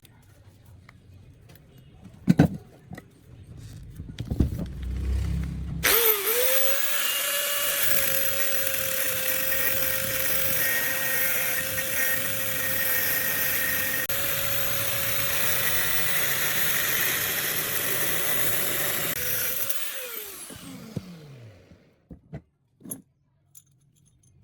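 An electric power tool motor switched on, running at a steady high speed with a high whine for about fourteen seconds, then switched off and spinning down with a falling pitch. A few handling clicks and knocks come before it starts.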